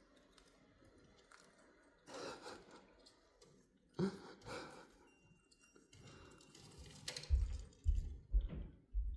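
Parrot chewing and crunching on something, with short noisy bursts about two and four seconds in and a run of heavy low thumps near the end.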